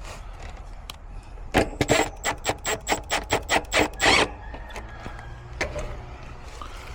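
Smartphone camera shutter sound firing in burst mode: a rapid run of about a dozen even clicks, about five a second, lasting about two and a half seconds.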